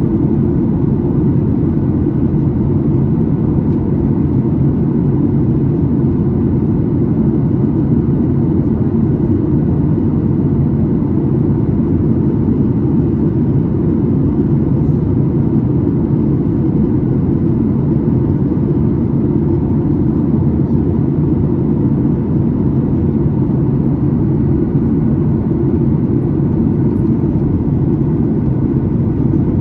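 Steady cabin noise of a Boeing 737-9 MAX: an even low rumble of airflow and its CFM LEAP-1B engines, with a faint steady hum above it.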